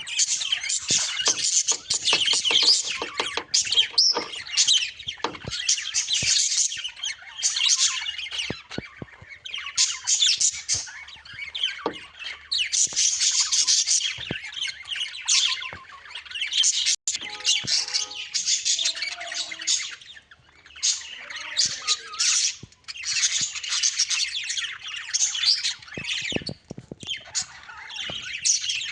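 Small birds chirping and twittering in dense, rapid, high-pitched bouts of a second or few, broken by short pauses.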